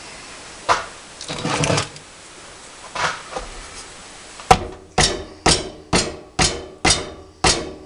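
Metal workpiece being struck: a few clicks and a brief scrape, then a run of seven ringing strikes, about two a second, in the second half.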